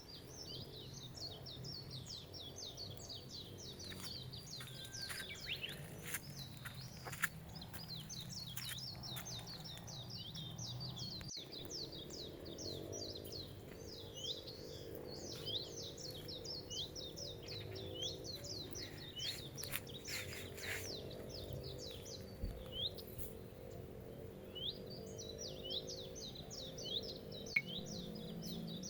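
Small birds chirping busily: many quick, high chirps overlapping almost without pause, briefly thinning out past the middle. A faint low hum lies underneath.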